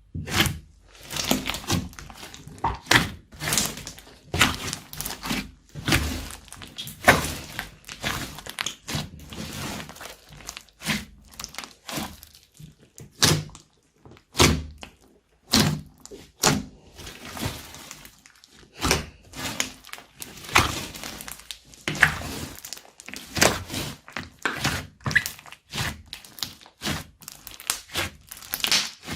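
Slime being mixed and squished by hand, with an irregular run of sharp clicks and pops, several a second.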